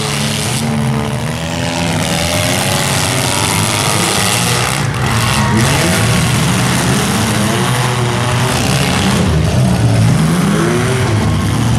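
Several compact demolition derby cars' engines revving hard and overlapping, their pitches rising and falling unevenly as the cars push and ram one another.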